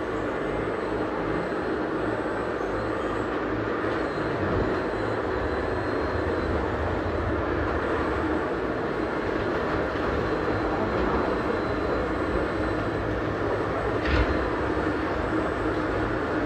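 A steady mechanical running noise, with a single sharp click about fourteen seconds in.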